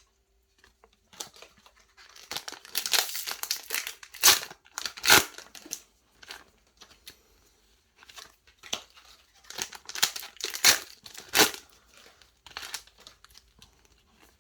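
Foil booster pack wrapper crinkling and tearing as a trading card pack is opened by hand. It comes in irregular bursts, in two busy stretches with a quiet gap between.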